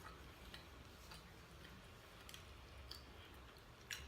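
Faint, scattered mouth clicks over near silence as someone eats, about half a dozen in four seconds, the sharpest near the end.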